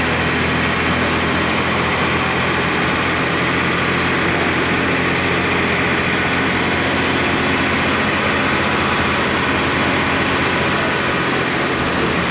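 2002 Blue Bird CS transit bus with its Cummins ISC inline-six diesel running steadily, a loud, even mix of engine and running noise. A faint high whine comes and goes in the middle.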